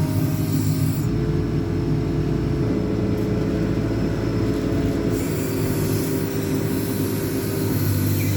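JCB 4CX backhoe loader's diesel engine running under load while the hydraulics work the rear boom: a steady drone with a whining tone that comes in about a second in and drops slightly in pitch about five seconds in.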